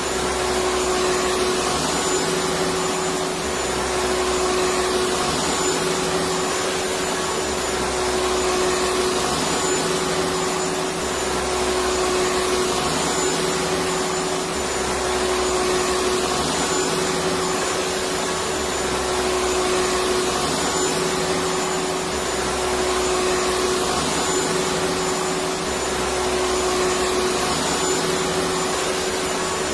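Electric vacuum cleaner running continuously, an even rushing noise with a steady whine, and a slight low swell about every three and a half seconds.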